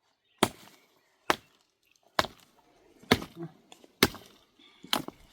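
Six sharp chopping strikes, evenly spaced just under a second apart, as from a hand tool hitting wood or packed earth.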